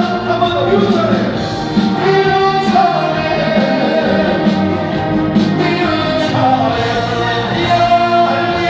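Trot song sung live by a male singer over a full backing band, amplified through a concert sound system.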